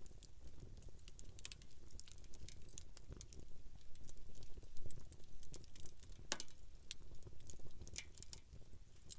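Campfire wood crackling with irregular sharp pops, two louder pops about six and eight seconds in.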